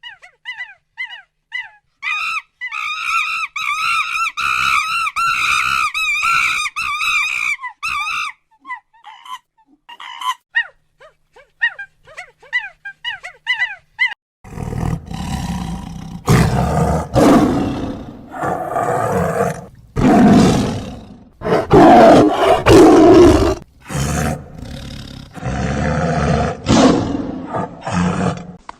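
Wild animal calls: a run of quick, high pitched chirping calls for the first half, then from about halfway a series of loud, rough roars.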